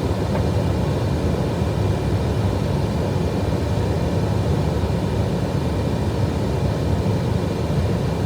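Steady flight-deck noise of an Airbus A320 in descent: a constant rush of airflow and engine hum, with faint steady whines above it.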